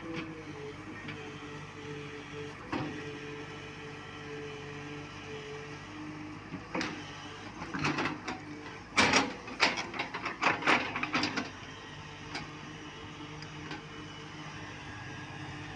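Tata Hitachi Super 210 excavator's diesel engine running with a steady hum, broken in the middle by a burst of knocks and clatter from the working bucket.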